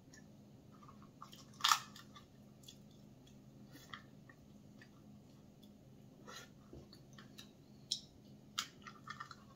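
Mouth sounds of a person eating cooked crab: faint wet chewing and smacking, with a few sharper clicks, the loudest a little under two seconds in and twice near the end.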